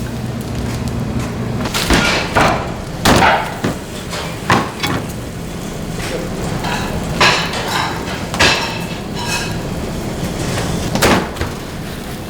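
Irregular sharp knocks and chops on wood, about nine in all and unevenly spaced, a few with a short ring, over a steady background hum.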